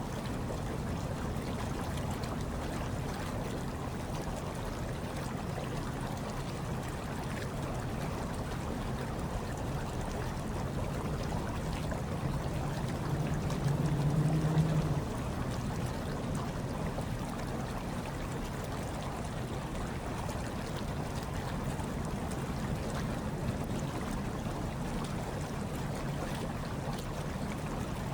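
Hot tub water churning and bubbling in a steady low wash, with a brief louder low swell about halfway through.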